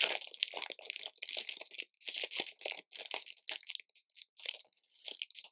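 Loose LEGO bricks clattering as a hand rummages through a pile of pieces: a rapid run of small plastic clicks and rattles that thins out near the end.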